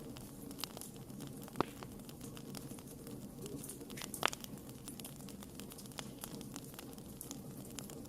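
Wood fire crackling: irregular sharp snaps and pops over a steady low hiss of burning, with two louder pops, one about one and a half seconds in and one about four seconds in.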